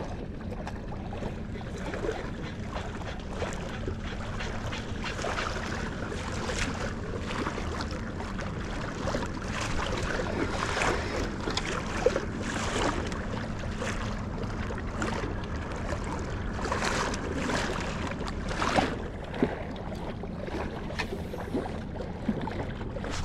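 Water lapping and splashing irregularly around a drifting kayak, over a steady low wind rumble on the microphone.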